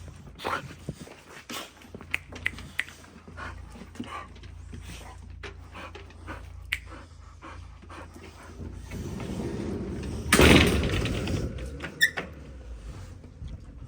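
Dogs moving about close by: scattered clicks and scuffles, with a loud rustling, scuffling burst about ten seconds in and a brief high whine soon after.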